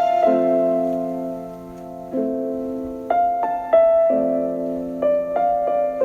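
Slow piano music: notes and chords struck one after another, each left to ring and fade.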